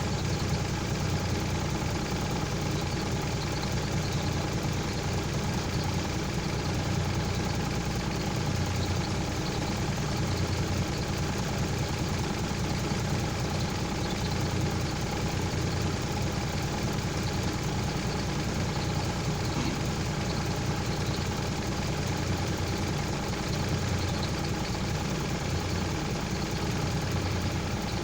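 A heavy engine idling steadily, with a continuous low hum and a faint steady whine over it.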